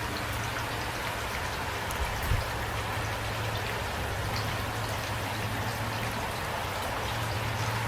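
Steady rain falling, with individual drops ticking through the hiss. A brief low thump about two seconds in.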